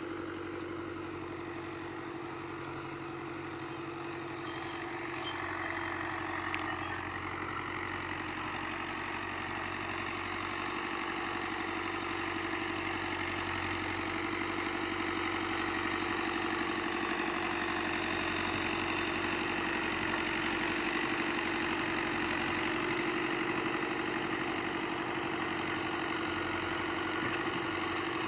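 An engine running steadily at constant speed, getting slightly louder over the first several seconds and then holding even.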